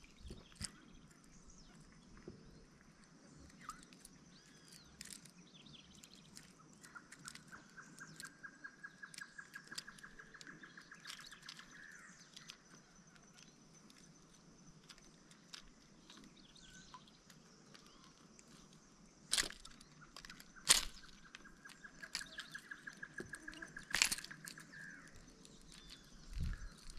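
Faint outdoor lakeside sound: a bird trilling twice, each a run of rapid even notes lasting about five seconds. Near the end come a few sharp clicks from handling the fishing tackle.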